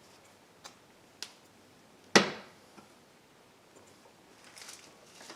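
Small metal hand tools clicking against metal engine parts as picks pry at the tabs of a line fitting, with one loud sharp clank and a brief ring about two seconds in.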